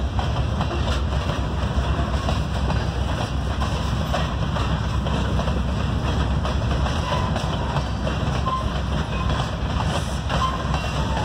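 Freight train of empty covered hopper cars rolling past: a steady rumble and clatter of steel wheels on the rails, with a few short squeaks in the later part.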